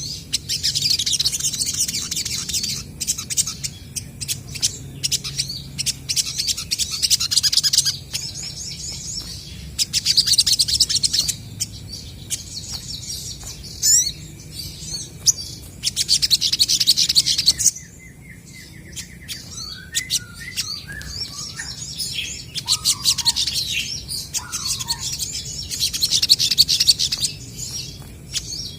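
Olive-backed sunbirds calling back and forth: rapid, high chattering trills in bursts of a second or two, repeated over and over, with a few lower whistled notes in the middle.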